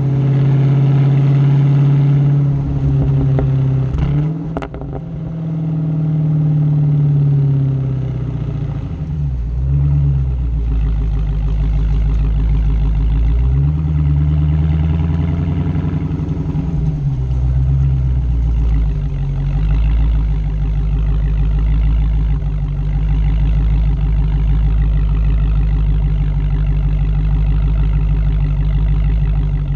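Dodge Hellcat's supercharged 6.2-litre Hemi V8 heard through its exhaust. The revs rise and fall several times, with a couple of sharp clicks about four seconds in, then settle to a steady lower drone for the second half.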